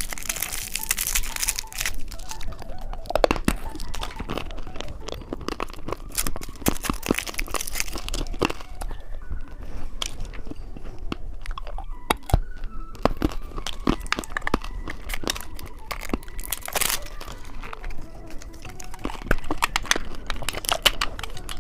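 Close-miked crunching and chewing of candy: dense, irregular crunches and crackles, with a crinkly rustle in the first couple of seconds.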